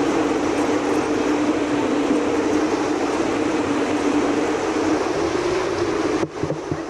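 Steady rushing noise with a low hum in it, briefly dropping out about six seconds in.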